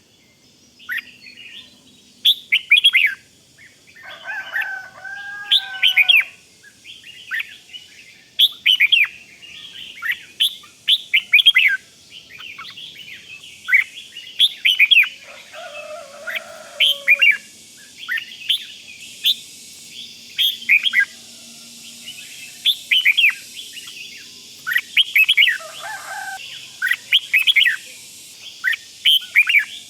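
Red-whiskered bulbul giving its rapid 'rik' call: quick clusters of short, falling chirps repeated again and again, with a few lower, warbling notes mixed in. This is the call that keepers play to rouse caged bulbuls.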